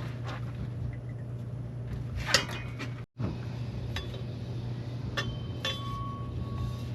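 Steel exhaust pipe pieces clinking as they are handled, over a steady low hum. The loudest clink comes about two and a half seconds in, and there is a brief break to silence soon after. Later clinks leave a thin ringing tone that holds for over a second.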